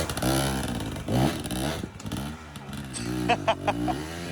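Dirt bike engine revving up and down several times, its pitch rising and falling with the throttle.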